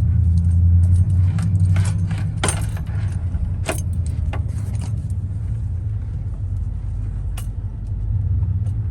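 Chevrolet Silverado SS-clone pickup heard from inside the cab while driving: a steady low engine rumble, strongest in the first second or so before easing off, with scattered light clicks and rattles over it.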